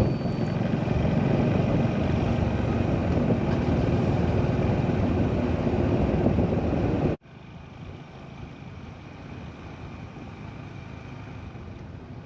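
Steady riding noise of a Honda H'Ness CB350 motorcycle on the move: engine and wind rush. About seven seconds in it cuts off abruptly to a much quieter, steady background noise.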